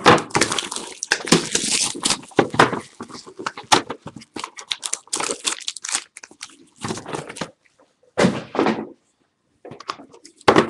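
Trading-card hobby boxes being torn open by hand and the card packs pulled out and set down: irregular cardboard tearing and wrapper crinkling, with a few light knocks.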